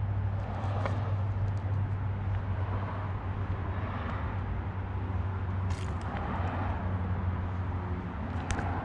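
Jaguar XK120 race car engine idling steadily with a deep, even hum, with a few short clicks over it.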